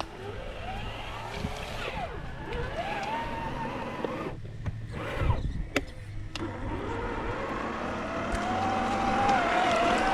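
Electric motor of a radio-controlled car whining as it is driven through water on homemade PVC pontoons, its pitch rising and falling with the throttle. It becomes steadier and louder in the last few seconds.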